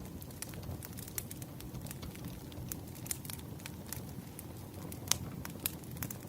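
Wood fire crackling: irregular sharp pops and snaps over a steady low rumble of the burning logs, with a louder snap about five seconds in.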